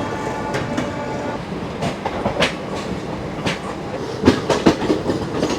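Passenger train running on the line, wheels clacking over rail joints under a steady rumble, with a quick run of louder clacks near the end.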